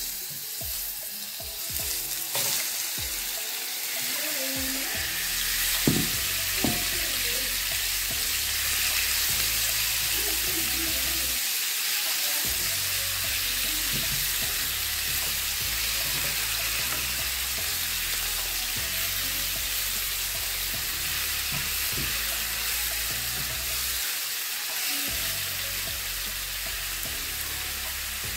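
Spiced chicken cubes sizzling in hot oil in a non-stick frying pan as they go in and are stirred, a steady hiss throughout. A couple of sharp knocks about six seconds in.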